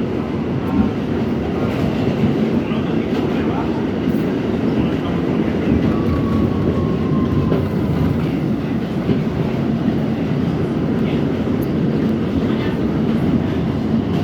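New York City subway R68 car running along the track: a steady, loud rumble with scattered clicks from the wheels and rails, and a faint high tone sliding slightly down about six seconds in.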